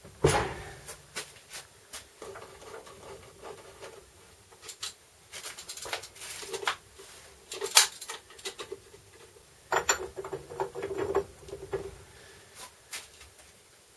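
Tools and metal parts being handled in a workshop: irregular clicks, knocks and scraping, with a sharp knock right at the start and another just before the middle.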